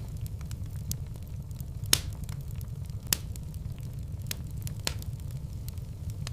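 Wood fire in a fireplace crackling: scattered sharp pops over a steady low rumble of the flames, with two louder pops about two and three seconds in.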